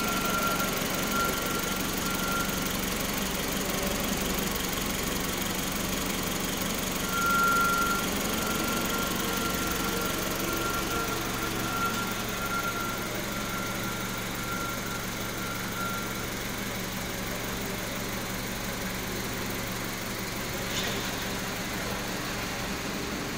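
2002 Honda Civic LX's 1.7-litre four-cylinder engine idling steadily, with a thin high tone coming and going over the top during the first two-thirds.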